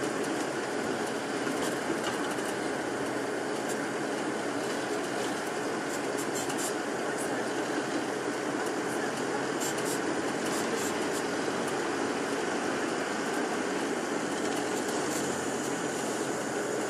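Steady engine and road noise inside a moving tour bus, with a few light rattles here and there.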